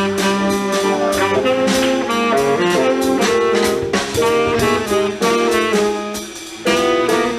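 Live small jazz combo playing an up-tempo tune: a saxophone plays a line of held and moving notes over walking bass and drums with cymbals. The band drops back briefly about six seconds in, then the horn comes back in.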